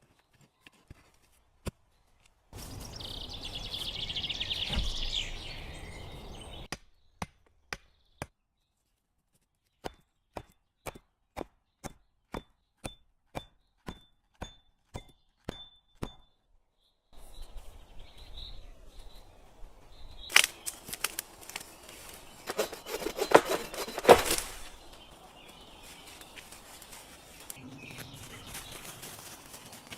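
Hand work on wood: a run of evenly spaced sharp knocks, about two a second, between stretches of noisy handling with a few louder knocks.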